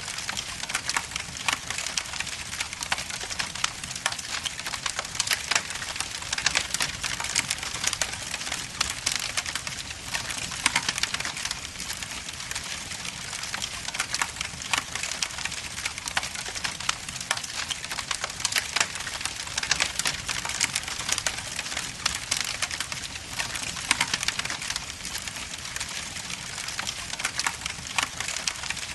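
Wood logs burning in a fireplace, crackling with dense, continuous small pops and snaps.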